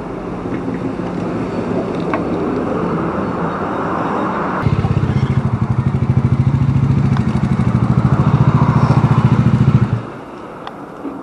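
Motorcycle engine running close by with a fast, even pulsing beat. It comes in abruptly about halfway through over steady background noise and cuts off suddenly near the end.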